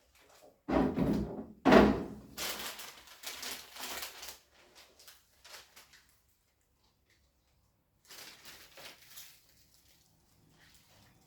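Two heavy thumps about a second apart, followed by rustling and scraping handling noise that stops and starts again, as of a new fridge and its wrapping being handled.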